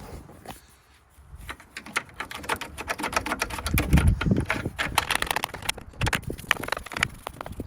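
Detailing brush scrubbing soapy engine-bay plastic and rubber trim: rapid scratchy strokes that start about a second and a half in.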